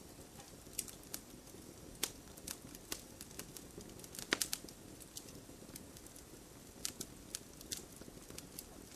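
Wood fire burning in a fireplace, crackling: a low steady rush of flames with irregular sharp snaps and pops, the loudest about two seconds in and just past four seconds in.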